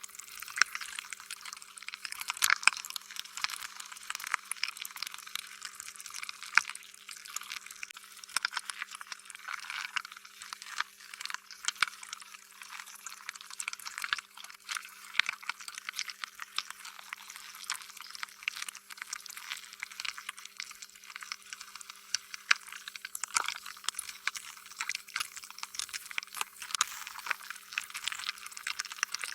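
Slime being squished and stretched, a continuous run of wet, sticky clicks and pops, with a faint steady hum under it.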